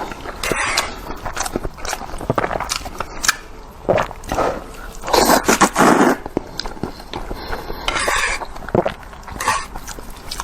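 Close-miked eating of Indomie instant noodles: wet chewing and mouth sounds, with a few louder noisy bursts, each under a second long, near the start, in the middle and about eight seconds in.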